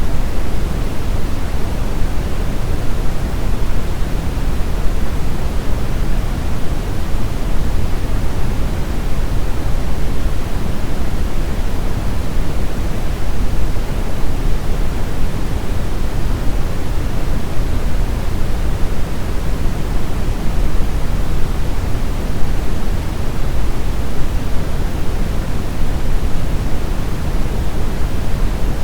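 Brown noise: a steady, even rumbling hiss weighted heavily toward the low end, with no tones or sudden changes.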